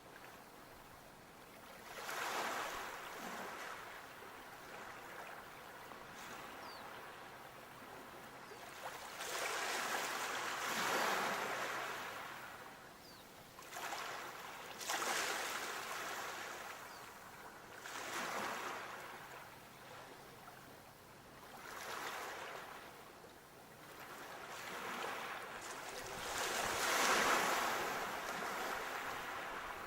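Sea waves breaking on the shore and washing back, about six surges coming every four to six seconds, the loudest one near the end.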